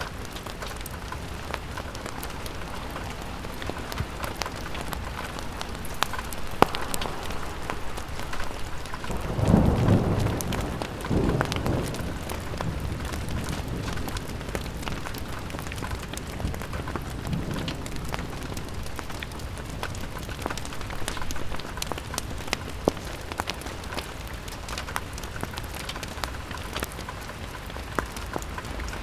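Steady rain on a window with scattered sharp ticks of drops, and a low rumble of thunder swelling about ten seconds in, with a fainter one later.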